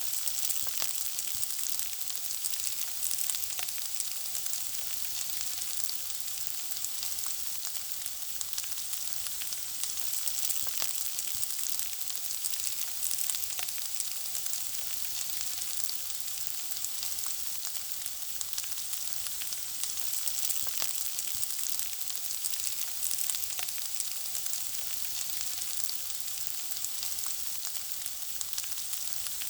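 Food frying in hot oil, sizzling steadily, with a dense scatter of small crackles and pops.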